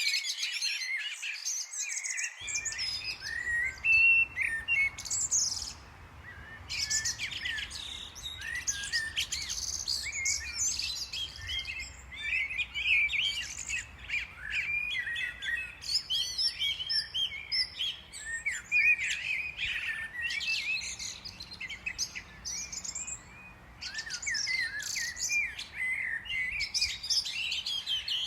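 Several small songbirds chirping and calling continuously, a dense stream of short overlapping high chirps with brief lulls.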